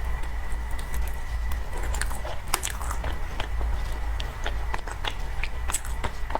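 Close-miked eating sounds of soft cream cake being bitten and chewed: irregular wet mouth clicks and smacks over a steady low hum.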